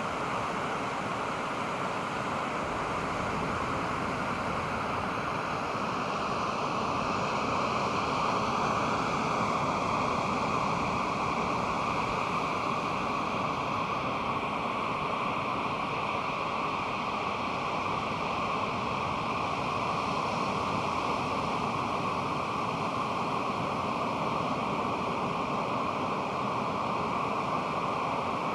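Pacific Ocean surf washing steadily onto the beach, a continuous roar of breaking waves with a slight swell about eight seconds in.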